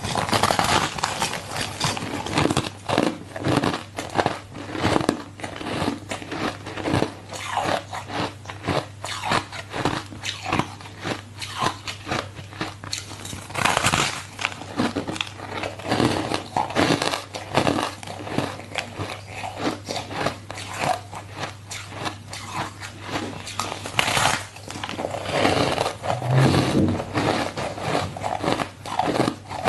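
Ice being bitten and chewed close to the microphone: a dense, irregular run of crunches and cracks, with a few louder bites scattered through.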